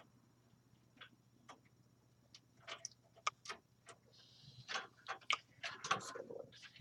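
Clicks and knocks of a computer power supply's main power connector and its wires being handled and pushed toward the motherboard socket, sparse at first and busier in the second half, with a short scrape about four seconds in.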